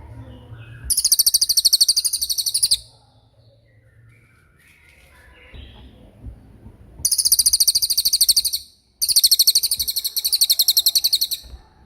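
A songbird singing three long, very high, rapid trills of about two seconds each, the second and third close together, with faint soft chirps in the pauses.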